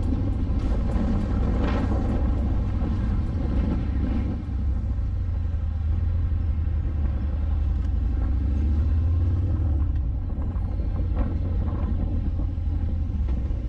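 Harley-Davidson Fat Bob 114 motorcycle on the move, its Milwaukee-Eight V-twin engine running under a steady, heavy low rumble of wind on a helmet-camera microphone.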